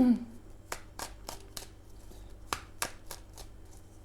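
A deck of tarot cards being shuffled by hand: an irregular run of short card snaps and slaps.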